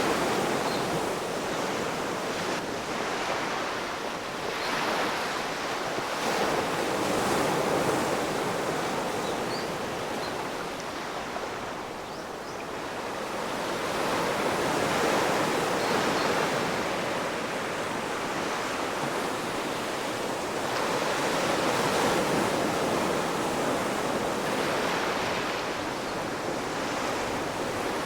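Ocean waves breaking on the shore, a steady rush of surf that swells and ebbs every several seconds, easing off for a lull about halfway through.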